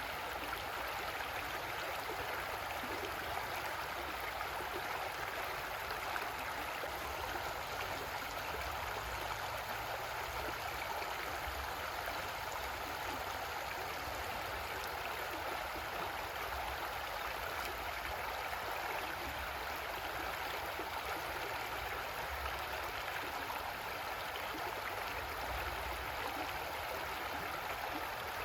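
Creek water flowing over rocks, a steady rushing and gurgling.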